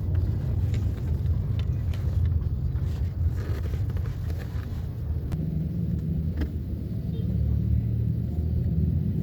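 Dog snoring: a steady low rumble, with a slightly higher drone joining in a few longer stretches in the second half.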